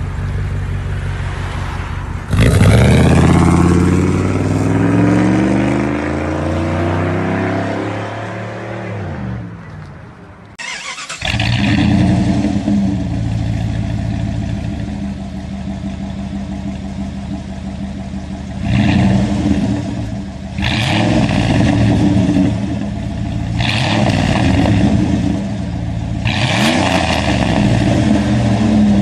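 Jeep Grand Cherokee ZJ's 5.2-litre V8 through a straight-pipe exhaust, idling, then revved hard about two seconds in and winding down slowly. After a brief drop-out it idles again and is blipped in several short revs.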